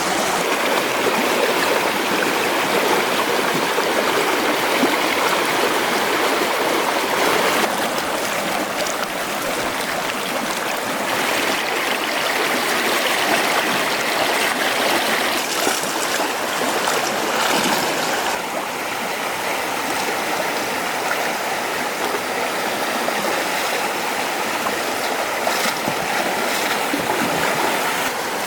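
Stream water running steadily, an even rushing and gurgling.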